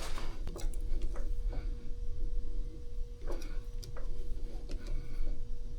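Steel hand tap being turned by hand with a large tap handle as it cuts a thread: scattered small clicks and creaks. A steady faint hum starts about a second in.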